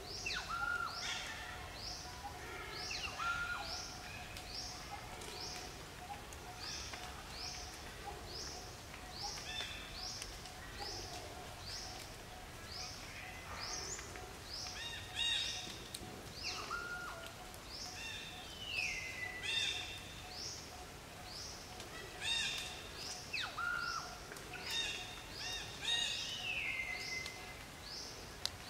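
Birds calling: short high chirps repeating about one and a half times a second without a break, with other calls that fall in pitch breaking in now and then, over a faint steady tone.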